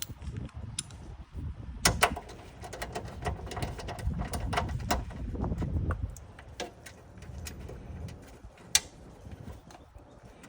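Hand tools and loose parts being handled during car repair work: scattered clicks and rattles, with a sharp knock about two seconds in and another near the end.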